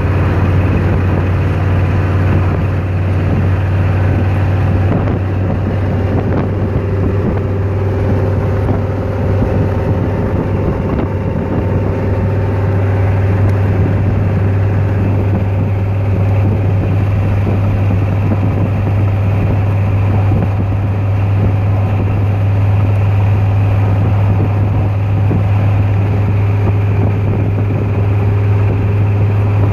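BluePrint Engines 306 cubic-inch small-block Ford V8 in a Factory Five hot rod, running steadily while the car drives along, with a constant low drone. Wind on the microphone mixes with it.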